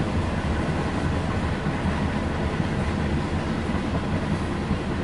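Freight cars of a long CN freight train rolling past, the steady running noise of their wheels on the rail.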